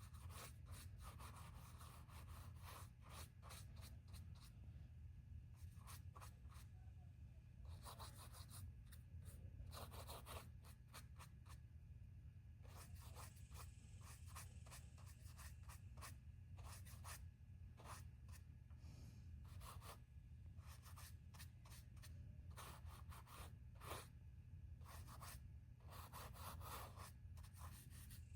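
Faint, irregular rubbing strokes of a painting tool on the painting's surface, over a steady low hum.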